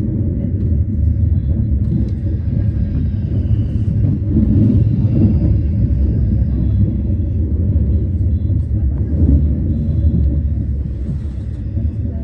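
Steady low rumble of a moving electric commuter train, heard from inside the carriage.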